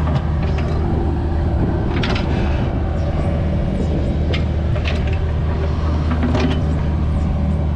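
Mini excavator's diesel engine running steadily while digging, with scattered metallic clanks and clicks from the bucket and linkage.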